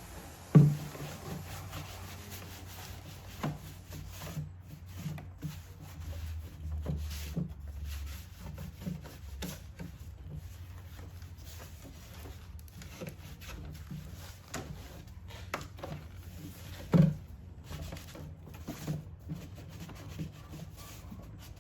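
Plastic air-intake housing parts being handled and fitted back into place: scattered light knocks and rubbing, with two sharp loud knocks, one about half a second in and one about seventeen seconds in.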